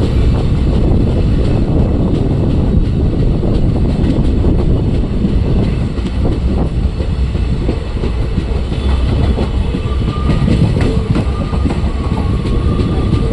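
Train running on the rails with a steady low rumble and scattered clacks of the wheels. A faint high tone joins it about ten seconds in.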